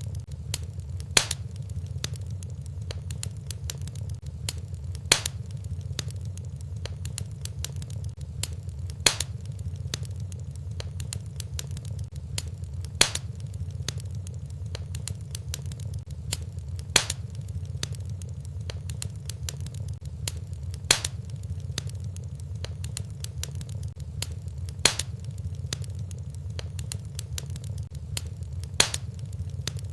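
Fireplace fire crackling over a steady low rumble, with small snaps throughout and a louder pop about every four seconds.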